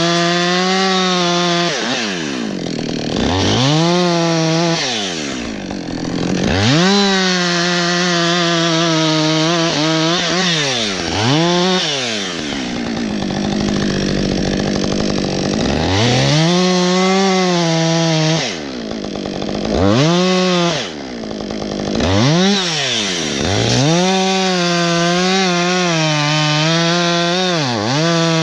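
Husqvarna 562 XP two-stroke chainsaw cutting wood at full throttle, its engine note dropping again and again as the chain bites and loads it, then climbing back as it frees.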